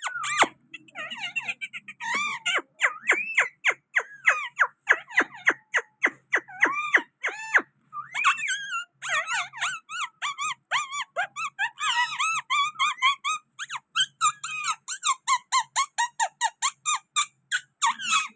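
Green parrot calling in a rapid series of short, squeaky chirps, about three to four a second, becoming a denser chatter around the middle.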